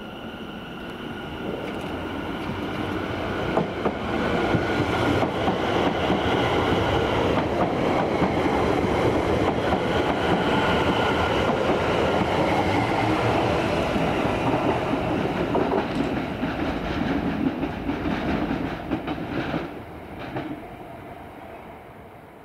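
Electric multiple-unit passenger train running past, building up over the first few seconds, holding steady with clicks from the wheels over rail joints, then fading away near the end.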